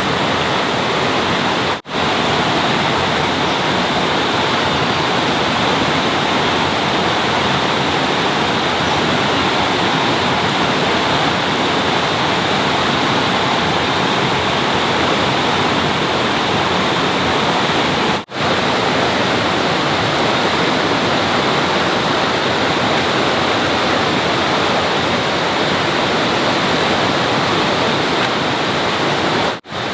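Steady, loud rushing of water, like a stream or waterfall, with no change in character, briefly dropping out three times.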